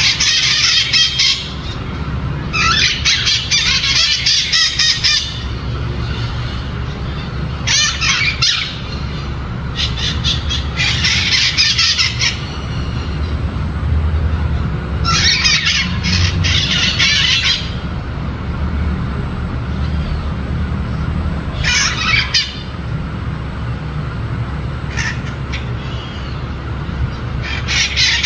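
Maritaca parrots giving harsh, rapid squawking calls in repeated bouts of one to a few seconds, with pauses between, over a steady low rumble.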